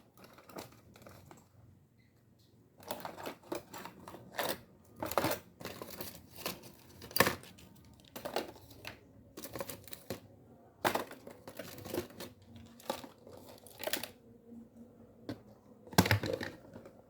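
Irregular clicks, clacks and rustling as a rusty fishing reel and its small parts are handled and taken apart by hand, starting about three seconds in.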